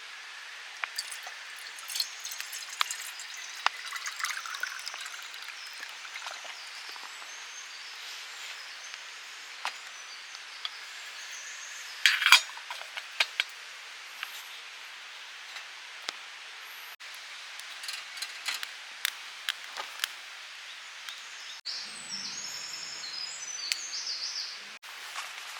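Light clinks and taps of camp cookware over a steady hiss, with a louder clatter about twelve seconds in.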